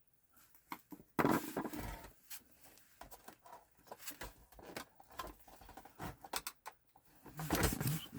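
Clicks, taps and rattles of hard plastic and metal console parts being handled during a PS4 teardown, with a louder clatter about a second in and another near the end.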